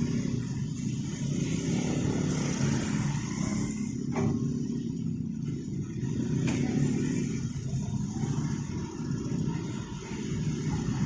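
Road traffic of motorcycles and cars, their engines running steadily with a low drone. There are two short clicks, about four seconds in and again a couple of seconds later.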